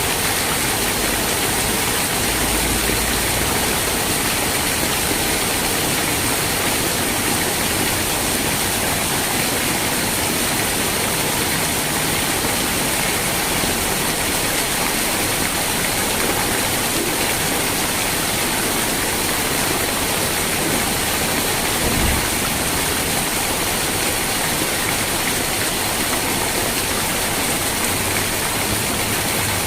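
Steady rain falling, an even, unbroken hiss, with one brief low thump about three-quarters of the way through.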